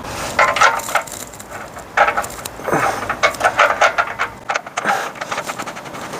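Irregular clicks, knocks and scraping, in quick clusters, from objects being handled.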